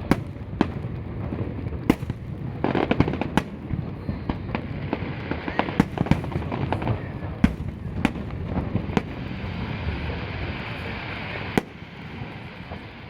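Aerial fireworks bursting: a string of sharp booms at irregular intervals, some in quick pairs, over a steady crackle. The last boom comes shortly before the end, and the sound falls quieter after it.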